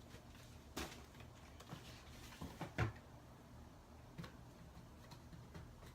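Rummaging through craft supplies: a few scattered light knocks and clatters as things are picked up and moved, the loudest about three seconds in.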